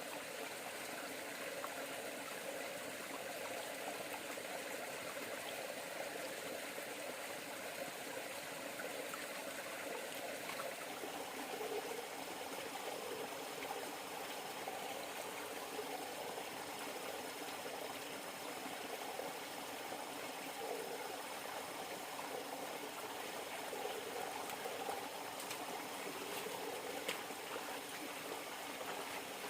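River water flowing steadily, a continuous rushing trickle.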